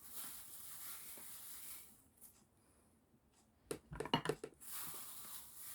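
Kitchen handling noises: a soft rustling hiss, then a quick cluster of knocks and clatter about four seconds in, the loudest part, followed by more rustling.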